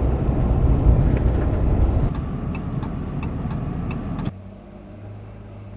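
A vehicle's low rumble of engine and road noise, loud at first and easing about two seconds in, with a run of light, evenly spaced ticks. About four seconds in it drops abruptly to a much quieter steady low hum.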